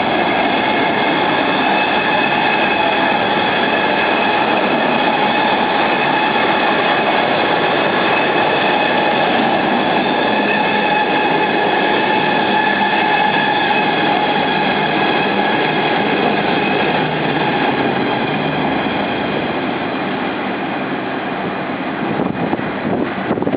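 Passenger coaches of a diesel-hauled train rolling past at speed: a steady, loud rushing rumble with high ringing tones from wheels on rail. It eases off slightly near the end.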